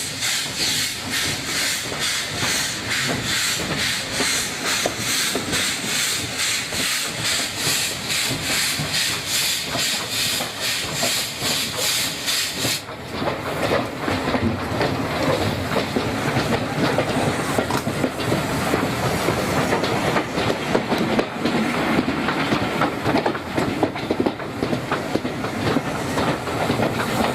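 Steam locomotive working, with a steady rhythmic chuff and hiss. About halfway through, the hiss drops away abruptly, leaving a louder rumble and clatter of the train running.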